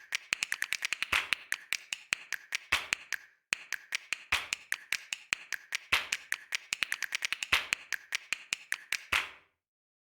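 A rapid run of sharp taps or clicks, several a second, with a short break about three and a half seconds in, stopping a little after nine seconds.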